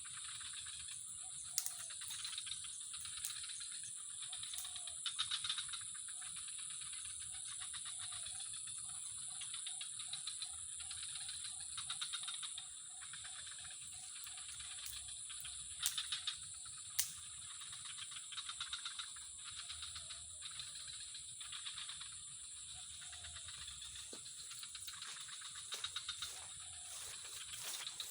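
A chorus of insects and frogs: a steady high buzz with a fast pulsing trill beneath it, and a frog calling in a run of evenly repeated croaks, about five a second, for several seconds near the middle. A few sharp clicks stand out.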